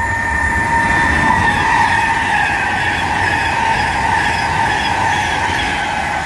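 Class 390 Pendolino electric train passing at speed through the station: a loud rush of wheel and air noise with a high whine that dips slightly in pitch about a second and a half in.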